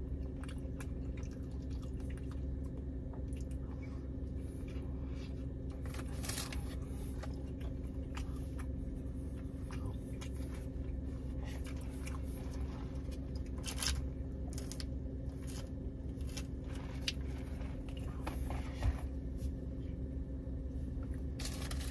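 A person chewing a sausage, egg and cheese breakfast burrito with closed-mouth, wet, squishy mouth sounds and scattered small clicks, over a steady low hum inside a car.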